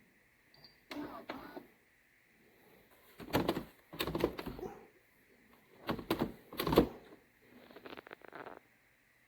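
Four clusters of rattling clicks and knocks, each a second or so long; the loudest comes about two-thirds of the way through.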